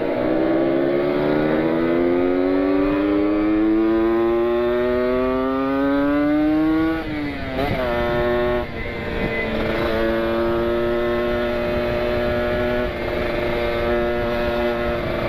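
Kawasaki Ninja 150 RR two-stroke single-cylinder engine at full throttle, its pitch climbing steadily for about seven seconds through a long pull. The pitch then drops with an upshift, climbs again and holds a high steady note over wind noise.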